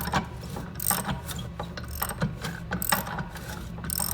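Hand ratchet clicking in uneven strokes, a few clicks a second, as it turns over the freshly unseized crankshaft of a Yamaha ET 340 snowmobile engine.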